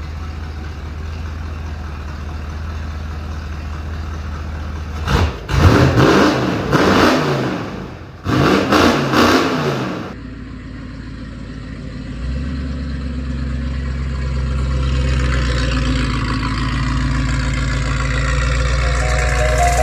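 1982 Ford Bronco's engine running steadily, then revved hard twice in rising-and-falling surges about five to ten seconds in, then building steadily as the truck accelerates.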